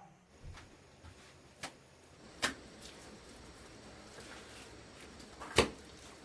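A few separate sharp knocks over a faint steady background: small ones near the start, a louder one about two and a half seconds in, and the loudest about five and a half seconds in.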